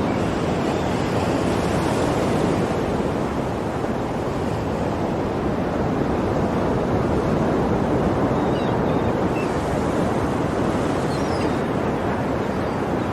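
Ocean waves breaking and washing on a shore, a continuous surf that swells gently and eases.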